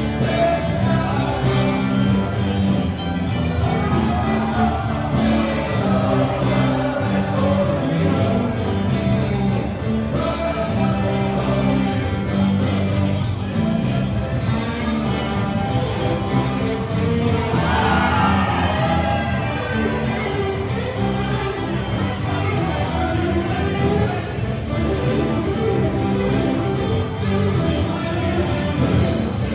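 Live band playing a song with a singer, steady bass and sung vocal lines throughout.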